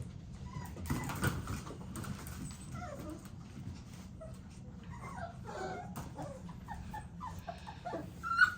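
American Bully XL puppies whimpering and whining in short, high, scattered calls, some sliding in pitch, over a steady low hum.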